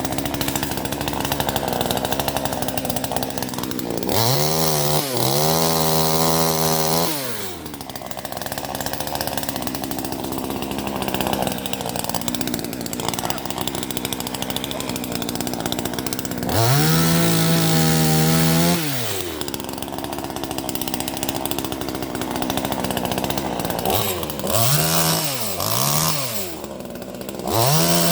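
Small Chinese top-handle chainsaw, thought to be a Zenoah copy, running with its two-stroke engine. It idles between two spells at full revs of about three seconds each. Near the end it is blipped up and down three times in quick succession.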